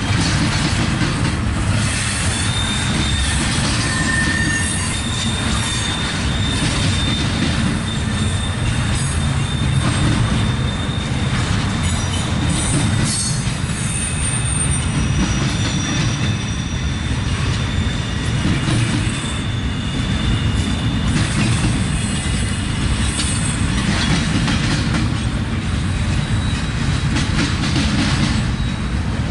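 Double-stack intermodal well cars rolling steadily past: a continuous low rumble of steel wheels on rail, with high-pitched wheel squeals that come and go.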